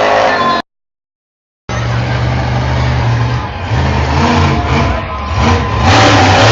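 A brief tail of music, then about a second of dead silence where the recording cuts. After that a large engine runs with its pitch rising and falling unevenly, like a monster truck's engine being revved.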